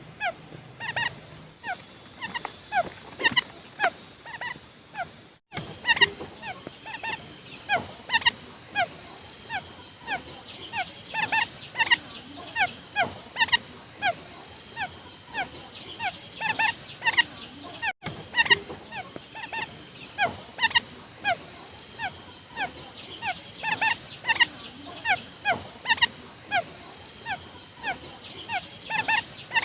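Quail calling: many short, sharp downward-sweeping chirps, several a second and overlapping as from more than one bird. This is a lure-call recording of the kind used to draw in quail. The calls break off for an instant about five seconds in and again about eighteen seconds in.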